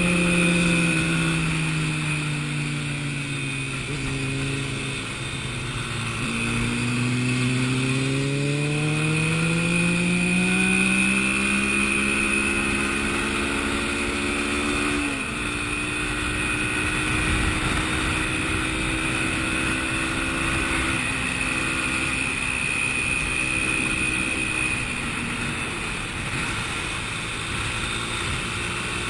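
Motorcycle engine running while riding: the engine note drops for the first few seconds, climbs steadily from about six seconds in to about fifteen, then holds fairly even.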